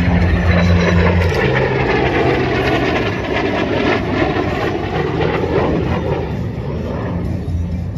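Aircraft engine noise at an airshow, slowly fading over the seconds.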